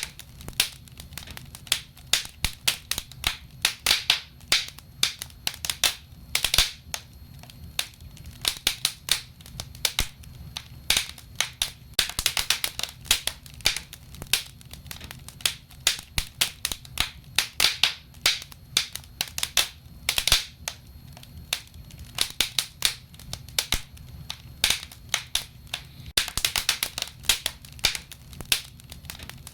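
Wood fire burning in a fireplace: irregular crackling and sharp pops of burning logs, in dense clusters, over a faint low hum.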